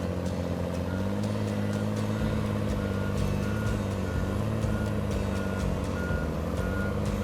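Engine of a heavy wheeled logging machine running steadily, its note rising a little about a second in, while its reversing alarm beeps evenly about every half second; scattered clanks over it.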